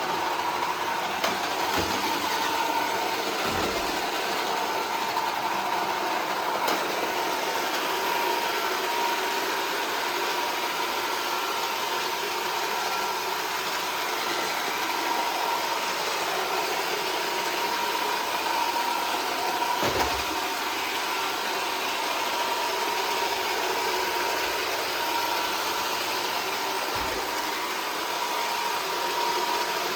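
iRobot Roomba 440 robot vacuum running steadily, a constant whir with a thin whine over it, broken by a few brief low thumps.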